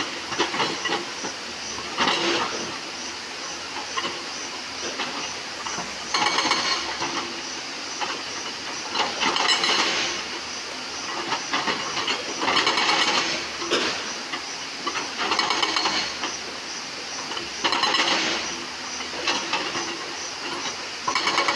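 Excavator-mounted hydraulic rock breaker hammering stones, in short bursts of rapid blows every few seconds, with the machine's engine and hydraulics hissing in between.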